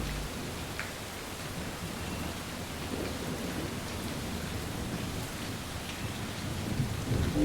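Steady rain falling, an even hiss, with thunder rumbling low beneath it.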